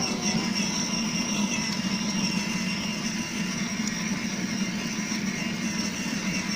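Motorbike running steadily, an even hum with a high whine above it.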